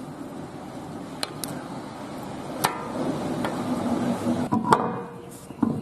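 Hand tools knocking and clinking on steel front-suspension parts during reassembly: about seven sharp metallic knocks at uneven intervals, a couple ringing briefly, with more of them in the second half.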